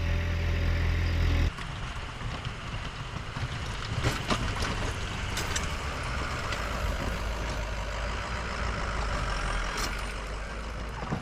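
Plow truck engine running, first as a steady low idle hum. About one and a half seconds in it changes abruptly to a rougher, noisier engine sound with a few sharp knocks.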